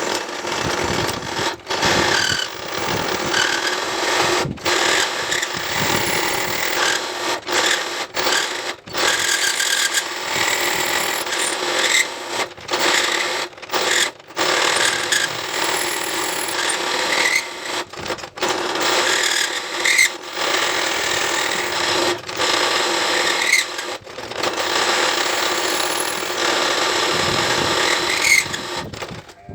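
A power tool working metal, a steady noisy sound broken every second or few by abrupt cuts.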